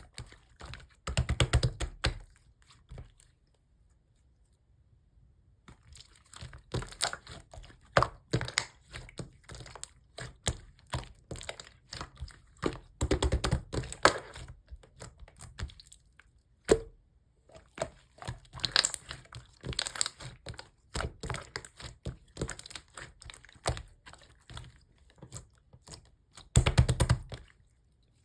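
Slime being squeezed, poked and stretched by hand, making runs of crackly clicks, pops and squishes that come in bursts, with a silent pause a few seconds in.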